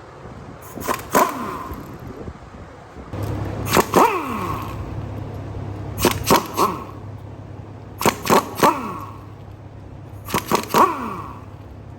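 Sharp knocks and cracks in small groups of two or three, about every two seconds, each followed by a quick falling ring, over a low steady hum that comes in about three seconds in.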